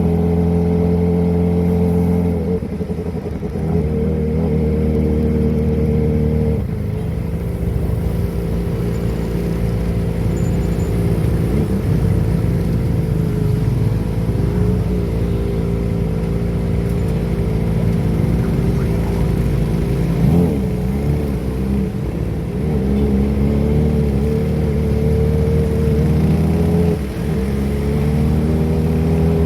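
Kawasaki ZX-25R's inline-four engine with a Prospeed aftermarket exhaust running at steady engine speeds that shift a few times, with a rushing noise over it through the middle stretch and a brief drop in level near the end.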